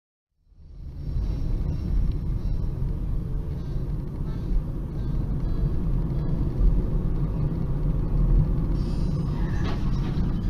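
Steady low rumble of a moving road vehicle, fading in within the first second. A brief higher tone comes in about nine seconds in.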